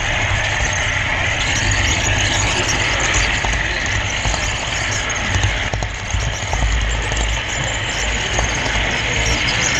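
Model railroad camera car rolling along the track, heard from the camera riding on it: a steady rumble and whir of wheels and drive, with a few faint clicks, typical of rail joints, about halfway through.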